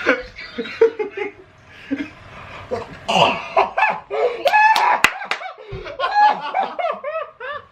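Young men laughing and snickering in bursts, with a few sharp smacks about two thirds of the way through.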